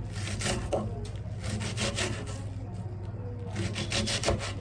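Knife slicing and sawing through food on a wooden cutting board, in three short runs of strokes over a steady low hum.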